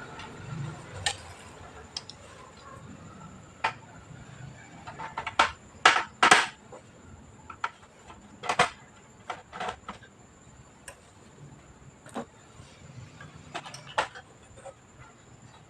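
Irregular light clicks and clinks of small hard plastic and metal computer parts and tools being handled during disassembly, the loudest a close pair about six seconds in.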